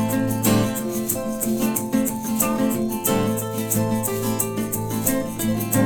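Acoustic band playing an instrumental passage: acoustic guitar with a shaker ticking out the beat, no vocals.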